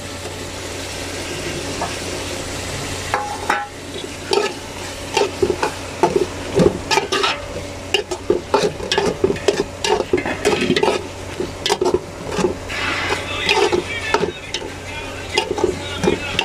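Prawns, tomato and ginger-garlic paste sizzling in hot oil in a metal pot, a steady hiss at first. About four seconds in, a metal ladle starts scraping and knocking against the pot as the mixture is stirred, over and over.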